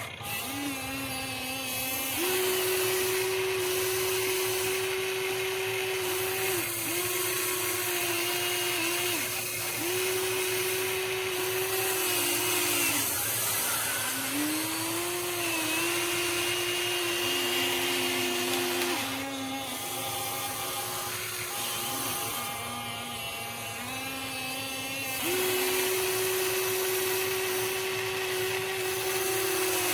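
Electric motors and gearboxes of a Huina 1593 radio-controlled excavator whining as it works. The pitch steps up and down between two levels and swoops briefly each time a motor starts or stops.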